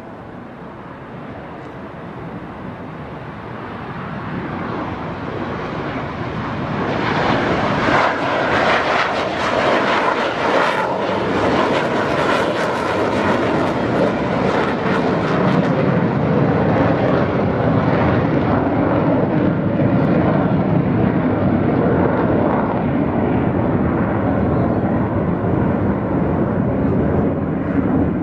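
Jet aircraft engine noise building up over several seconds. It is loudest and crackling from about 7 to 16 seconds in, then settles into a steady, deeper rumble.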